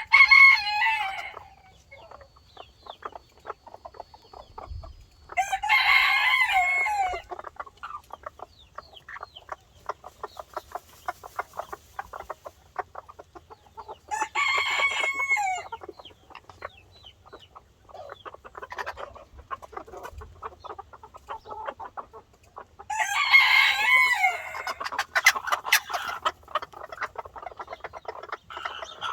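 Rooster crowing four times, each crow about two seconds long and spaced several seconds apart, with short clucks from chickens in between.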